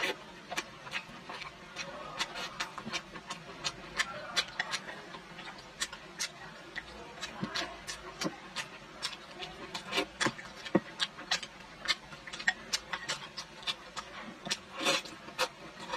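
Close-up mouth sounds of a person chewing fatty boiled pork belly in garlic sauce: wet smacks and sharp clicks, irregular, a few a second.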